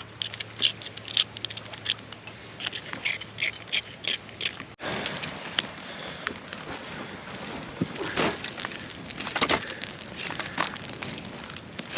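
Small campfire of sticks crackling as it catches, with many sharp, irregular pops and snaps and a brief break about five seconds in.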